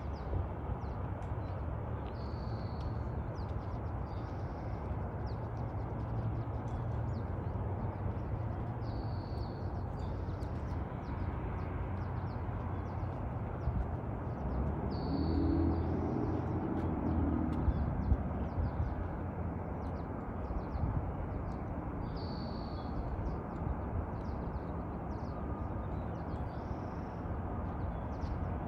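Outdoor ambience: a bird giving a short high call about every six seconds over a steady low rumble, with a louder low swell about halfway through.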